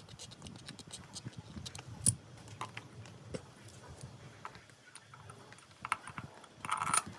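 Scattered clicks and clinks of metal tools and engine parts being handled during engine assembly, with one sharp knock about two seconds in and a quick cluster of clinks near the end.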